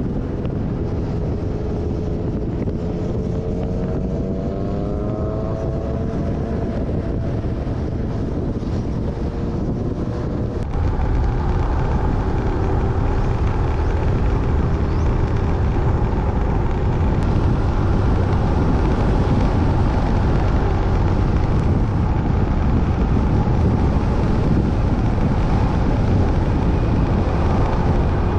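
Motorbike engine running under way, with wind noise on the microphone. The engine pitch rises a few seconds in. About a third of the way through, the sound steps up louder and fuller and stays that way.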